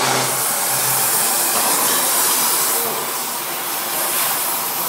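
Loud, steady hissing rush of a jet of gas or air, easing a little about three seconds in.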